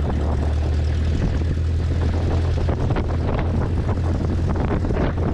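Small plane's engine and propeller droning steadily, heard from inside the cockpit on approach to the runway.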